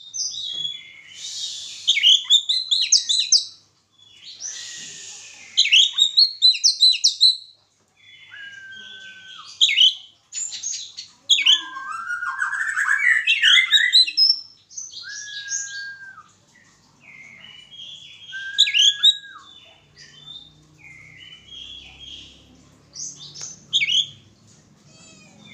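Oriental magpie-robin singing: loud, varied phrases of quick sharp notes with harsh rasping passages, and from about eight seconds in, short level whistles at a lower pitch woven between the phrases, with short pauses between them.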